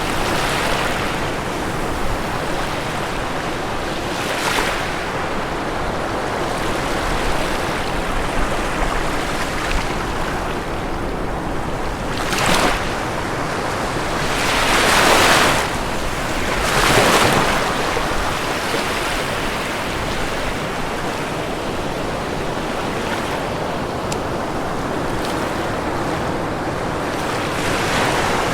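Ocean surf washing onto a shore: a steady wash of water, with waves breaking louder about twelve seconds in and twice more in quick succession around fifteen and seventeen seconds in.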